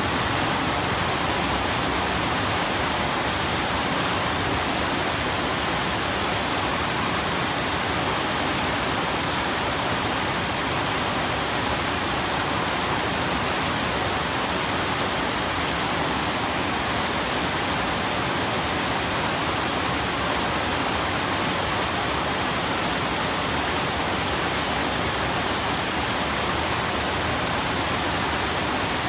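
Steady rain, an even unbroken hiss with no single drops or changes standing out.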